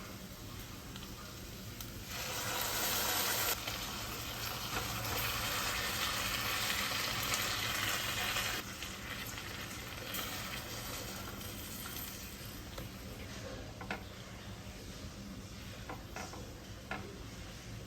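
Food sizzling as it fries in a pan. The hiss turns louder about two seconds in and drops back a few seconds later. Light clicks of a utensil against the pan follow near the end.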